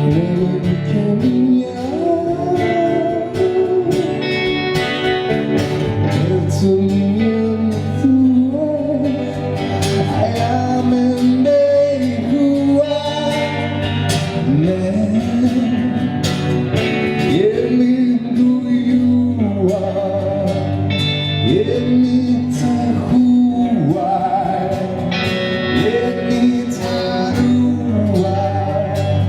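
Band music: a voice singing over guitar and other instruments, with the sung line gliding and swooping in pitch.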